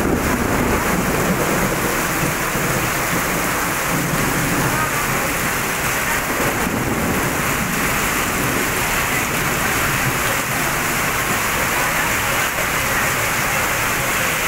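Heavy monsoon rain pouring onto a road in a steady, loud downpour, with a low rumble beneath it.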